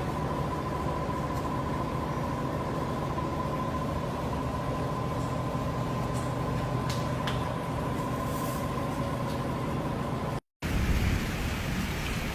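Steady machinery drone with a constant whine over a low hum. It cuts out briefly near the end and gives way to a rougher noise.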